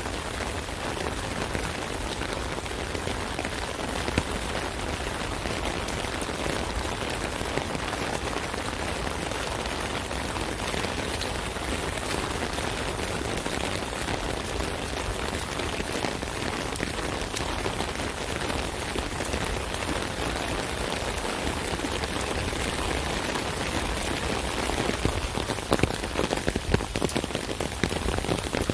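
Steady rain pattering on an umbrella canopy, a dense hiss of drop impacts, with a few heavier drips standing out near the end.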